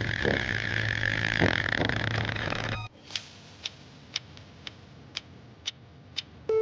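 A steady noisy rush with a low hum underneath that cuts off suddenly about three seconds in, followed by sharp ticks evenly spaced about two a second.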